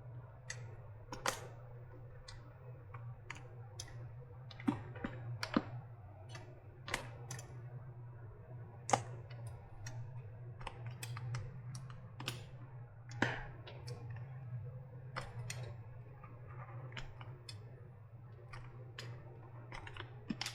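Irregular clicks and taps of hand tools working on a battery pack's casing and silicone, a few louder knocks among them, over a steady low hum.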